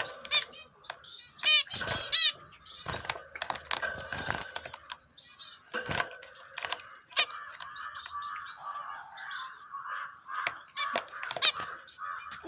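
Java sparrows calling: a run of short, high chirps and clicking notes, loudest about two seconds in, then a long chattering run of lower notes near the end, with sharp taps among them.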